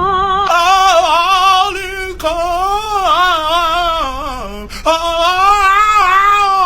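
A voice singing long held notes with a wavering vibrato, in three phrases with short breaks about two seconds in and again near the middle.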